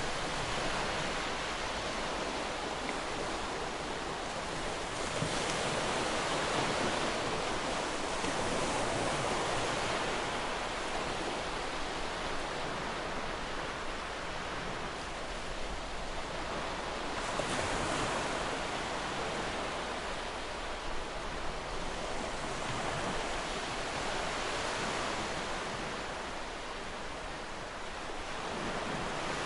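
Ocean surf: waves breaking and washing ashore in a continuous rush of noise that swells and eases every few seconds.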